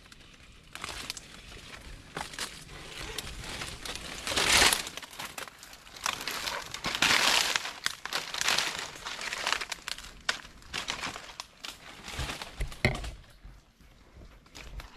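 Leaves and branches rustling and crackling as someone pushes through dense mangrove undergrowth and leaf litter, in uneven swells, loudest in the middle and dying down near the end.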